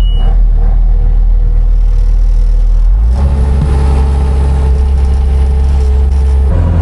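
Engine of a motor vehicle running up close, loud and steady. Its pitch steps up about three seconds in and changes again near the end, as the engine speed changes.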